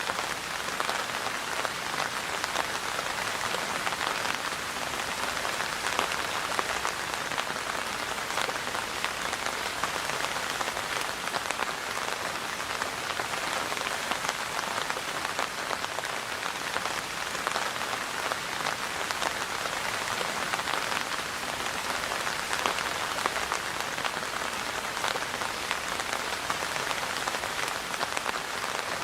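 Steady rain falling, a constant hiss with many separate drops ticking through it and no change in strength.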